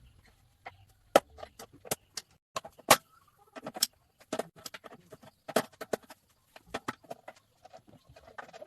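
Irregular sharp clicks and clinks of metal tools and engine parts being handled, a dozen or so in a few seconds with short gaps between.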